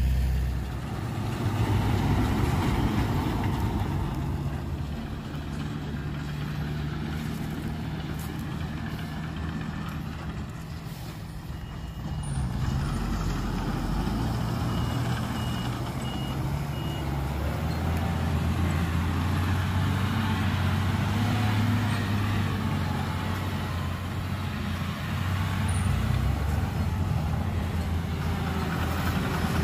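Heavy diesel engines of dump trucks and a bulldozer running and changing pitch as they work, with a faint reversing alarm beeping about halfway through.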